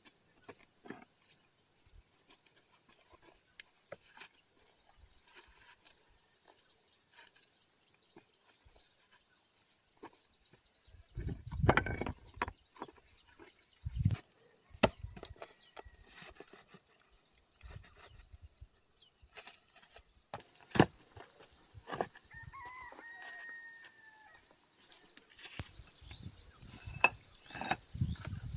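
Scattered knocks and clicks with a few heavy thuds from work going on, and a rooster crowing once about two-thirds of the way through. High bird chirps come in near the end.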